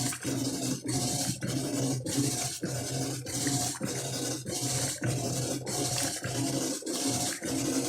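Electrolux LT12 12 kg washing machine agitating: the motor hums in short strokes, reversing about twice a second, with water sloshing in the tub.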